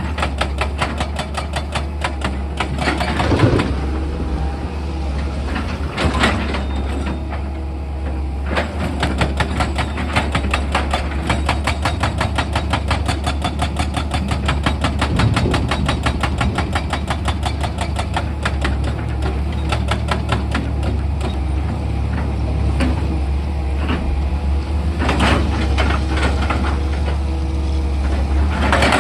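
Heavy diesel machine engine running with a steady low hum, overlaid with a fast, even hammering of steel on rock, like an excavator's rock drill or breaker at work. There are a few heavier single knocks.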